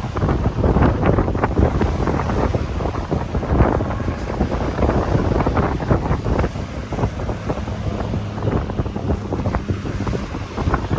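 Strong wind gusting and buffeting the microphone in irregular rushes, over the steady wash of sea waves breaking.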